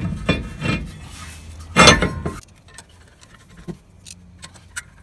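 Metal-on-metal clinks and scraping from hand work on a rear disc-brake assembly: a handful of knocks and scrapes, the loudest about two seconds in, then a few faint ticks.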